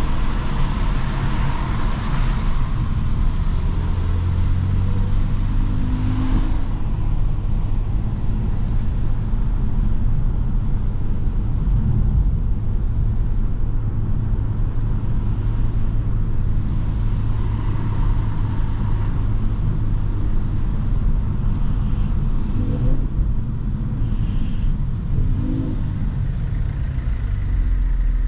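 Mercedes C43 AMG driving, its engine and exhaust running steadily under road noise; toward the end the engine note falls and rises as the speed changes.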